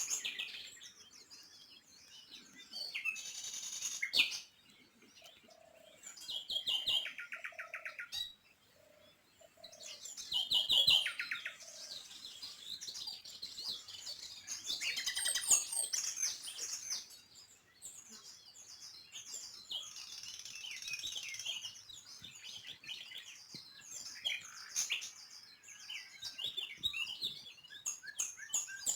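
Small songbirds chirping and singing, several at once, with quick repeated trills about a third of the way in.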